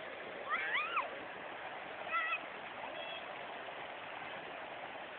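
Steady rush of waterfall water, with a short rising vocal cry about half a second in and a brief high call about two seconds in.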